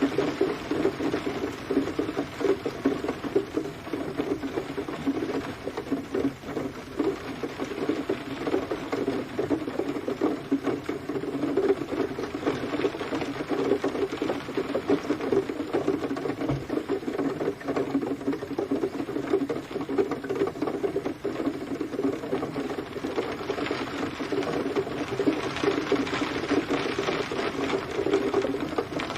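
Steady rain pattering on a hard surface, a dense, even stream of small drop impacts.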